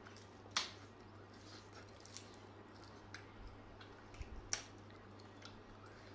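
Crisp, crackly bites and chewing of raw mango leaves and chillies: two sharp crunches, about half a second in and again about four and a half seconds in, with fainter crackles between, over a steady low hum.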